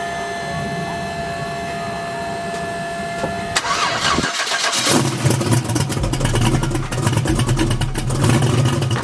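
A vehicle engine starts: a steady high whine for the first few seconds, a short break, then the engine catches about five seconds in and runs loudly and unevenly.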